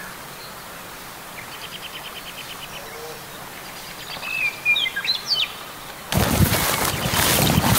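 Small birds calling over a steady outdoor background hiss: a short rapid trill near the start, then a few chirps that slide in pitch about five seconds in. About six seconds in, a loud, flickering rush of noise begins, much louder than the birds.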